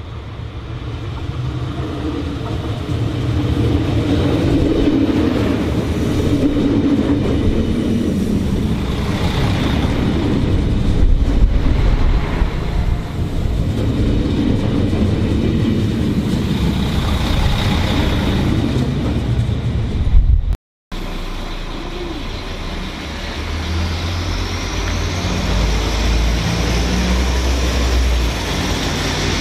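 A train passing close by: a loud rumble of wheels on rail that builds over the first few seconds and then runs steadily. It breaks off suddenly about two-thirds through, and a lower, throbbing engine-like sound with a slowly rising high whine follows.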